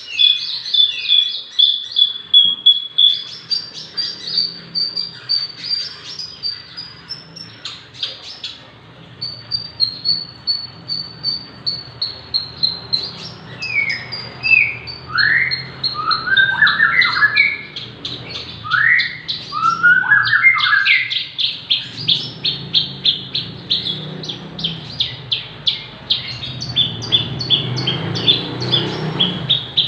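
Javan bush lark (branjangan) singing continuously and actively: fast high chirps and trills, a run of downward-sweeping whistled notes in the middle, then a quick string of rapidly repeated notes near the end.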